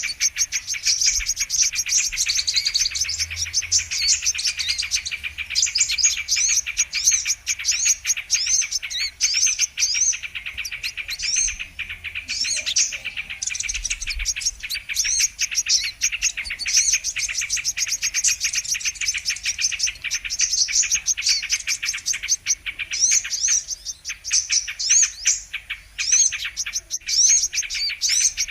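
Brown-throated sunbird (kolibri kelapa) calling: a fast, continuous run of high, sharp chirps and twitters, many notes a second, with only short breaks. This is a recording played as a lure to attract the same species.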